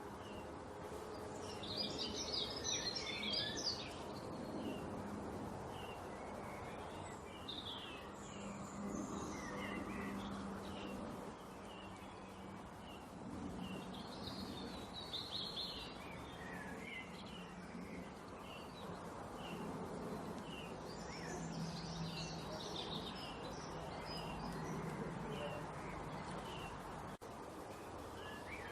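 Small songbirds chirping and twittering, with short repeated high chirps throughout and several bursts of dense chatter, over a steady low background drone.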